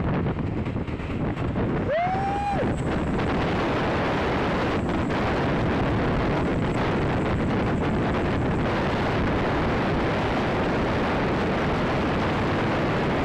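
Wind buffeting the microphone over steady vehicle and road noise. About two seconds in, one short tone rises and then holds briefly.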